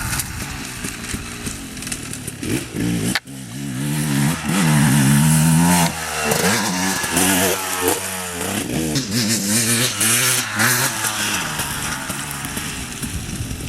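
Dirt bike engine revving, its pitch rising and falling repeatedly with the throttle. The sound breaks off abruptly about three seconds in and carries on straight after.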